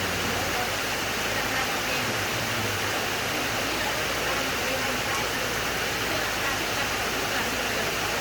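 Steady heavy rain falling: an even, unbroken hiss of downpour.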